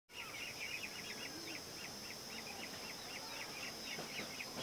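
Birds chirping in a quick string of short repeated notes, several a second, over a steady high-pitched hum.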